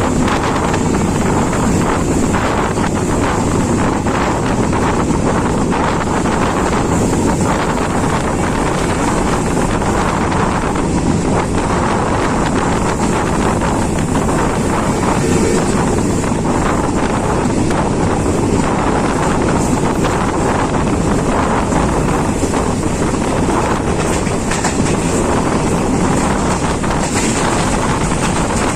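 Passenger train running at speed, heard from on board: a steady rumble of wheels on rails with wind rushing over the microphone.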